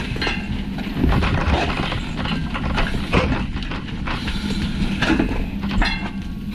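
Irregular knocking and clattering over a steady low mechanical hum.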